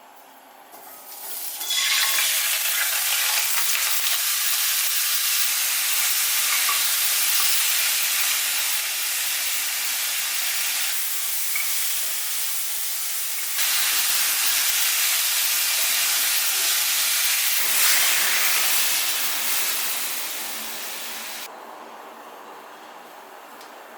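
Food frying in a hot pan, a steady loud sizzle that starts about a second and a half in and dies away near the end.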